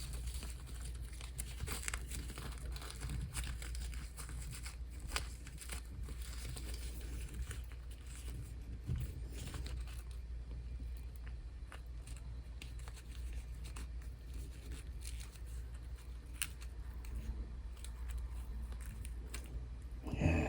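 Handling noises of a plastic action figure as a shirt is worked onto it: scattered light clicks and rustles throughout, over a steady low hum.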